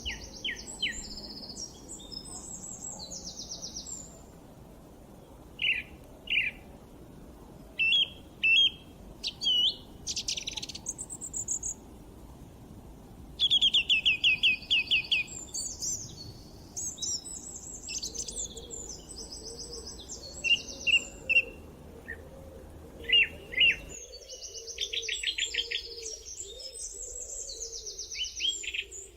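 Wild birds singing and calling: short repeated chirps and fast rattling trills, several overlapping, over a faint steady background noise that changes abruptly about 24 seconds in, as at a join between two recordings.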